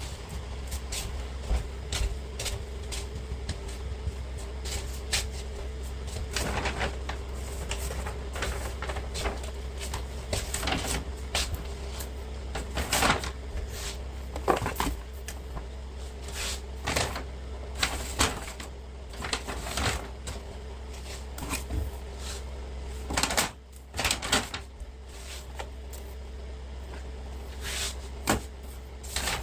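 Household items being handled and set down, with scattered sharp knocks and clicks throughout, over a steady low hum.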